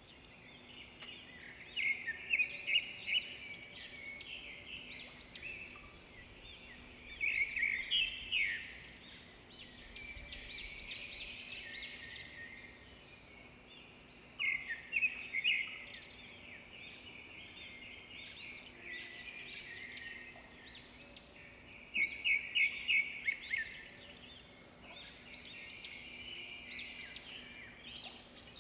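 Wild birds chirping and singing in bursts of quick repeated notes that come and go every several seconds, over a faint steady low hum.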